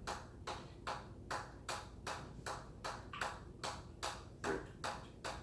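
A steady run of light, sharp strikes in an even rhythm, about two and a half a second: a repeated skill move being counted rep by rep.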